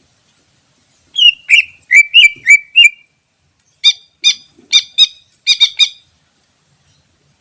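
Green leafbird (cucak ijo) singing: a phrase of six loud, sliding whistled notes, then after a short pause a quicker run of about seven sharper notes.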